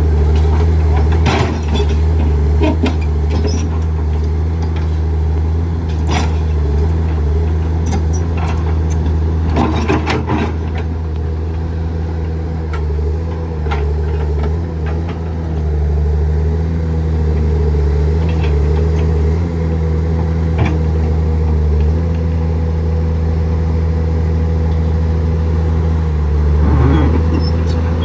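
Diesel engine of heavy earthmoving machinery running steadily, with a few short metallic knocks now and then.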